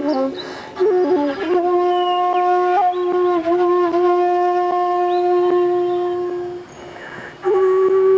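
Shakuhachi, the Japanese bamboo flute, playing a few short sliding notes and then holding one long low note for about five seconds. A breathy pause follows, then the next note starts near the end.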